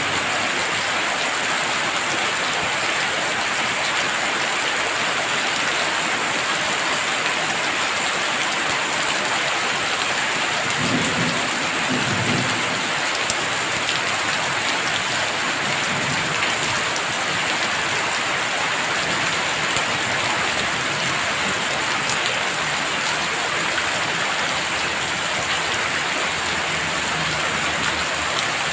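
Heavy rain falling steadily, with a brief low rumble of thunder about eleven seconds in.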